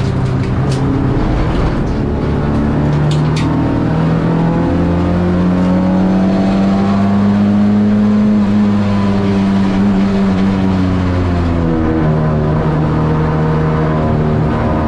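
Ford Escort XR3's CVH four-cylinder engine running hard under race load, heard from inside the cabin. Its note climbs slowly through the middle, then falls away and changes abruptly about three-quarters of the way through. A few sharp ticks come in the first few seconds.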